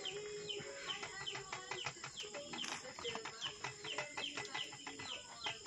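Birds chirping: many short, high chirps, each falling in pitch, several a second, over a steady high-pitched whine.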